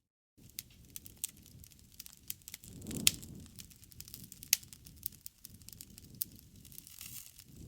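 Wood campfire crackling, with irregular small snaps and two sharp louder pops about three and four and a half seconds in. A low rush of flame swells briefly around the first pop. The sound cuts out completely for a split second at the very start.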